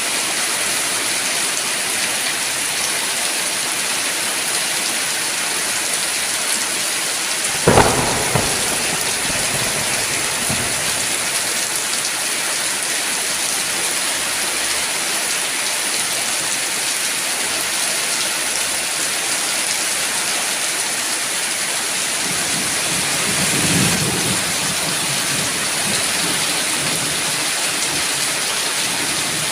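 Steady heavy rain falling, with a sharp clap of thunder about a quarter of the way through and a softer, low rolling rumble of thunder later on.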